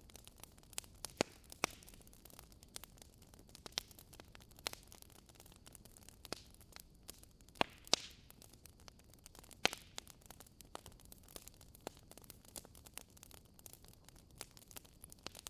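Logs burning in a fireplace: irregular sharp crackles and pops over a faint steady hiss. The loudest pops come a little over a second in, around eight seconds in and near ten seconds in.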